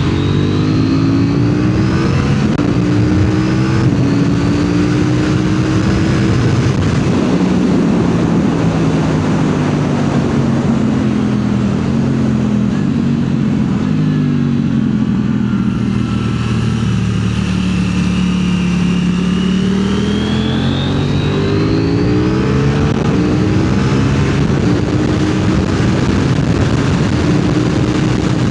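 KTM motorcycle engine being ridden hard on a race track. It revs up and steps down through upshifts early on, its pitch sinks slowly through the middle as the bike slows for a corner, and then it climbs again in stepped rises as it accelerates out.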